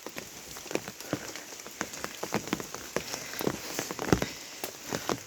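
Monsoon rain falling, with large drops striking a nearby surface in irregular, sharp taps over a steady hiss.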